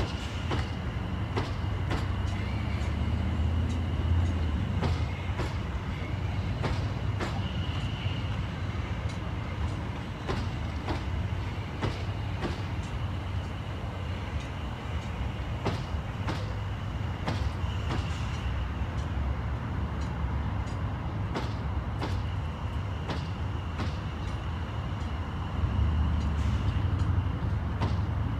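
South Western Railway electric multiple unit rolling slowly past, a low rumble with its wheels clicking over rail joints and points at an irregular beat, and a faint steady high whine.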